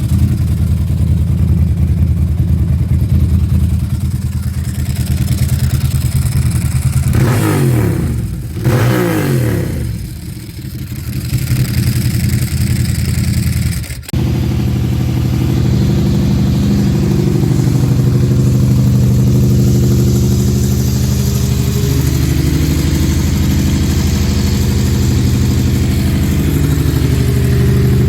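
Ducati Monster 1000 i.e.'s air-cooled L-twin running through a G&G GP exhaust: it idles with a loud, lumpy beat, is blipped twice about seven to nine seconds in, rising and falling in pitch, and then idles on after a sudden break about halfway through.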